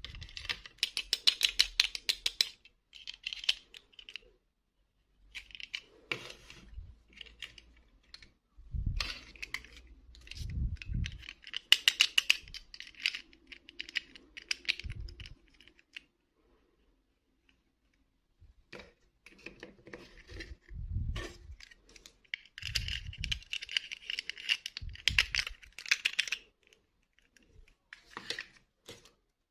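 Small hard toys being handled: quick runs of clicking and rattling that last a second or two, broken by pauses, with a few dull thumps.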